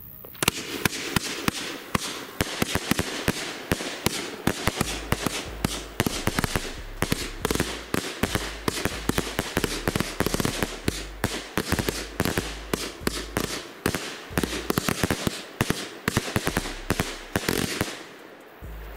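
Funke 'Lemon Sky' firework battery firing: shots launching and bursting in a fast, dense string of sharp cracks that starts about half a second in and stops shortly before the end.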